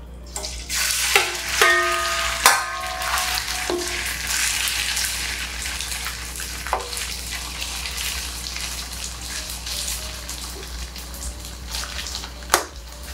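Sea bass slices coated in egg and starch sizzling as they hit hot oil in a wok, with metal clinks and scrapes of the spatula and bowl against the wok. The sizzle is loudest in the first few seconds, then settles into a steadier frying hiss as the fish cooks.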